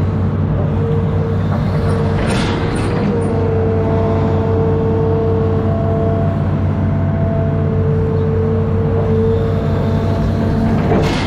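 Amphibious excavator's diesel engine running steadily under load, with a steady high whine above it and brief clatter about two and a half seconds in and again near the end.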